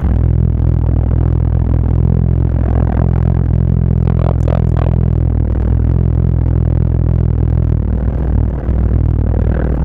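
Dodge Charger R/T's V8 heard from inside the cabin at highway cruise: a deep, steady drone that dips briefly near the end.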